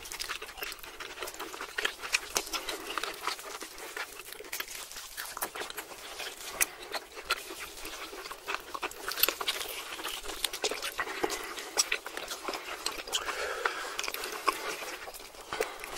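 Close-miked chewing of steak and melted cheese: a dense run of wet smacks, lip clicks and soft mouth sounds from several eaters.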